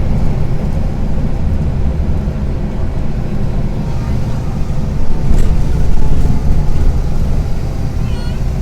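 Karsan Avancity+ articulated city bus engine running under way, a steady low rumble with a rattly edge. A short high-pitched sound comes near the end.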